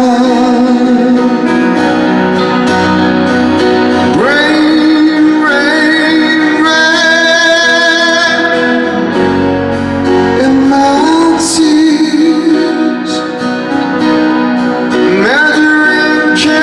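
Live performance of a slow ballad: a sung lead line held in long notes with vibrato over a band with guitar, swooping up in pitch about four seconds in and again near the end.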